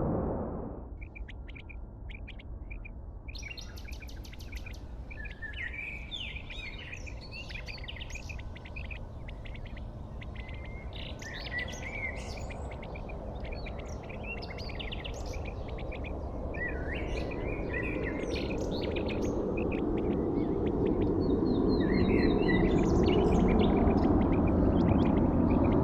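Birds chirping, many short calls overlapping, over a low rumble that swells louder through the second half.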